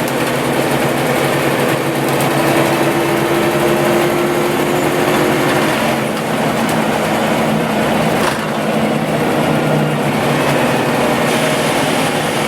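Scania OmniLink city bus driving, its engine running steadily under a constant haze of road and body noise, with a whine that rises slowly and fades about halfway through.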